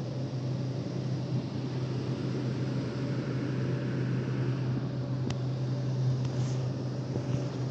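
Steady low mechanical hum with a constant drone and a wash of noise, typical of vehicle and car-wash machinery running, with a single faint click about five seconds in.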